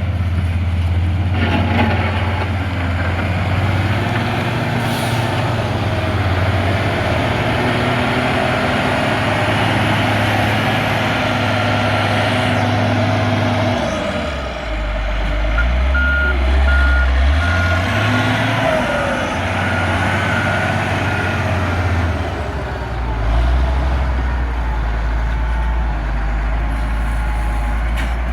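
Caterpillar 140G motor grader's diesel engine running under load, its pitch dropping about halfway through and rising briefly a few seconds later. A reversing alarm beeps in a steady series for several seconds past the middle.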